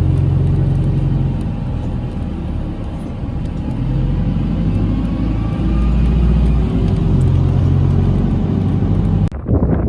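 An engine running with a steady low drone, its pitch and loudness swelling and easing slightly.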